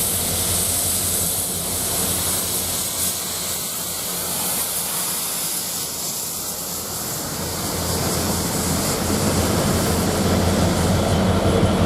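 GBRf Class 69 diesel locomotives, two-stroke EMD V12 engines, running steadily as the train passes, with a high hiss over the engine note. The noise dips slightly midway, then grows louder near the end as the rear locomotive draws level. The spotter takes the train for a track-cleaning train.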